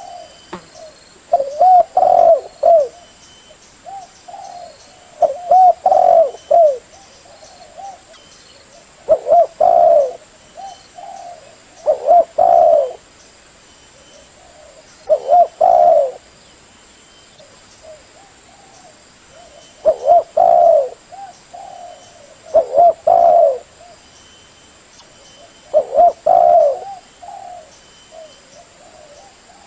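Spotted dove (Spilopelia chinensis) cooing: its repeated phrase of short rolling coos, given about eight times, every three seconds or so.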